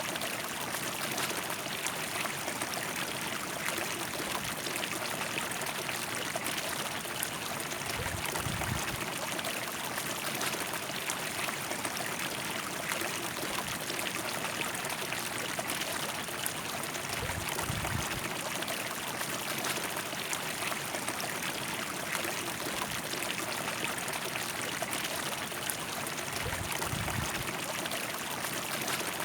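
River water flowing over stones, a steady rushing and trickling, with a few brief low rumbles.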